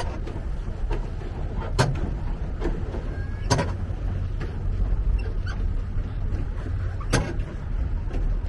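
Pedal boat on open harbour water: a steady low rumble of wind and water, broken by a few sharp knocks a second or two apart.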